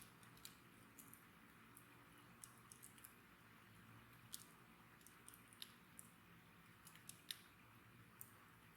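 Wood fire crackling: faint, irregular sharp pops and snaps over a soft steady hiss, with a louder pop about four seconds in and another about seven seconds in.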